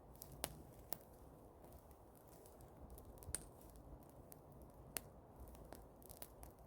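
Bonfire of old cut grass burning, with faint crackling and irregular sharp pops.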